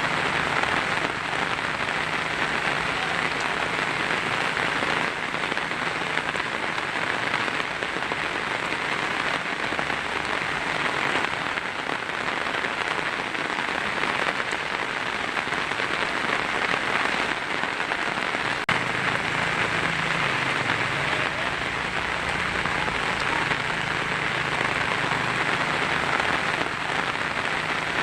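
Heavy rain drumming steadily on a tin roof, a dense, even patter with no let-up.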